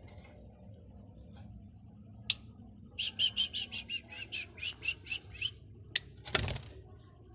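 Lovebirds chirping: a quick run of about a dozen short chirps in the middle, with a sharp click before it and a loud harsh burst near the end, over a faint steady high whine.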